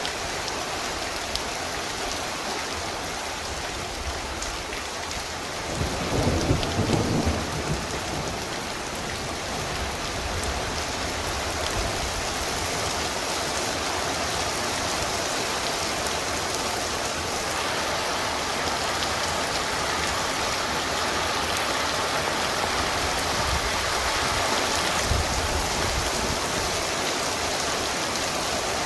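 Heavy rain pouring steadily, with a low rumble of thunder about six seconds in that lasts a second or two. The rain grows a little louder after that.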